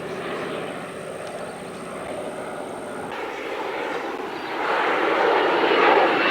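Airplane engines overhead, a steady rushing drone that swells louder in the last couple of seconds as the aircraft comes closer.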